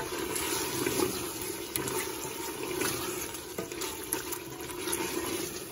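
Chicken and masala sizzling in hot oil in an aluminium pressure cooker pot, stirred with a wooden spoon that scrapes and knocks against the pot now and then. This is the bhuna stage, the chicken being fried down in its masala.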